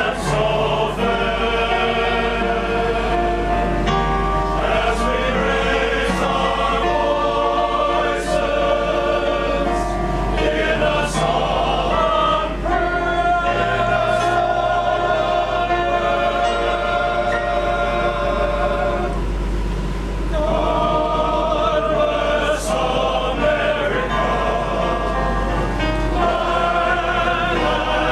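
Male chorus singing in harmony, with held notes and vibrato, over a steady low hum.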